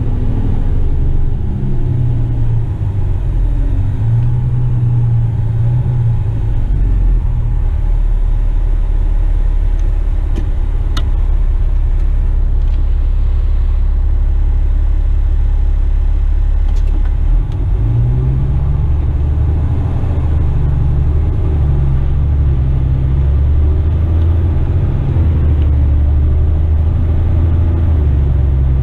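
Heavy diesel engine of a Western Star tipper truck running steadily, heard from inside the cab. Its low note shifts and rises a little about two-thirds of the way through.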